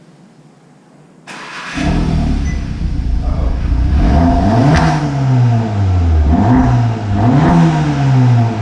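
Volkswagen Golf R (Mk7) turbocharged 2.0-litre four-cylinder starting up about a second in, then free-revved several times through a freshly fitted Milltek cat-back exhaust. The pitch rises and falls with each blip of the throttle.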